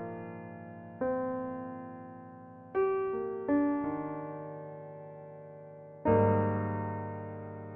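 Solo piano background music: slow, sparse chords struck four times, each left to ring and fade away.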